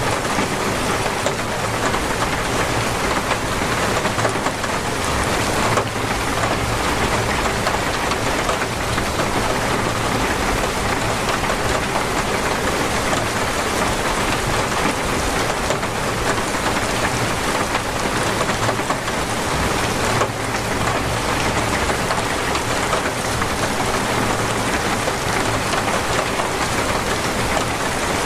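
Heavy, steady rain pouring down and drumming on surfaces in a dense, even hiss, with a faint low rumble underneath.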